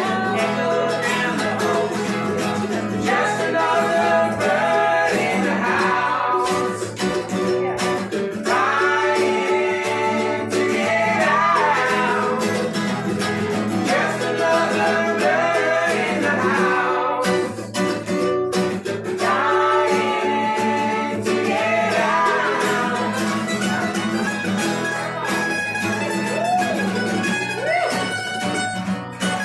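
Acoustic string-band music: strummed guitar under a melody line that bends and slides.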